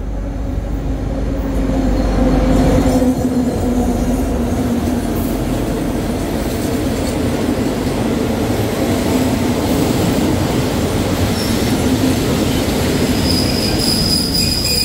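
State Railway of Thailand diesel-hauled passenger train pulling in along the platform. A low engine hum passes in the first few seconds, then the carriages roll by with a steady rumble of wheels on rail. Near the end a high, steady brake squeal sets in as the train slows to a stop.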